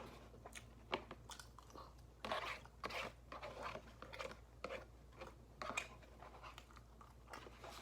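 Close-miked chewing and wet mouth sounds of a person eating loaded fries, with irregular soft smacks and sharp clicks.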